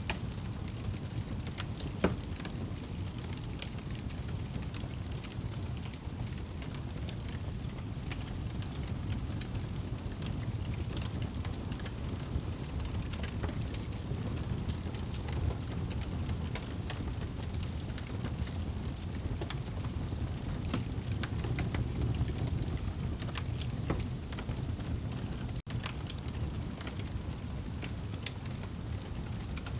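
Wood fire burning in a fireplace: a steady low rumble of flames with scattered crackles and small pops, one louder pop about two seconds in.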